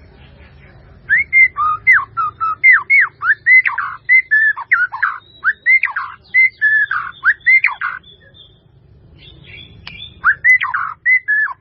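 White-rumped shama singing a fast run of loud, clear whistled phrases. The song breaks off about eight seconds in and starts again near the end.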